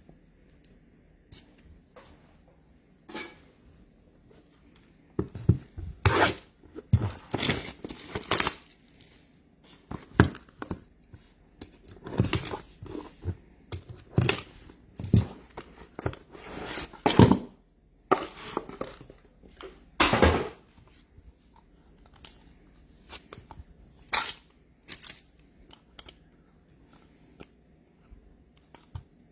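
Trading card packs being torn open and their foil wrappers crinkled, with cards handled between, in irregular bursts that are busiest through the middle of the stretch and thin out near the end.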